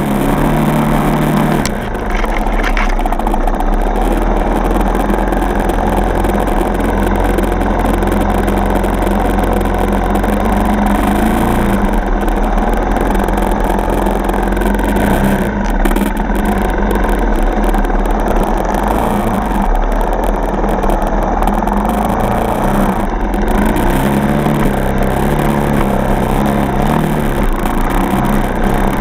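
Single-cylinder four-stroke dirt bike engine running while riding, its pitch rising and falling several times with the throttle, over a steady rush of wind and trail noise.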